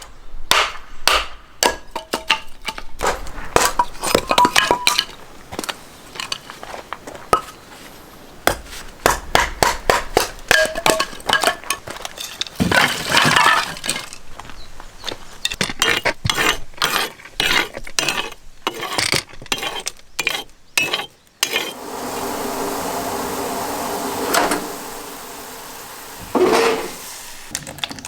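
Dishes and utensils clinking and clattering: many short knocks and clinks, some ringing briefly. About three-quarters of the way through the clatter gives way to a steady rushing sound.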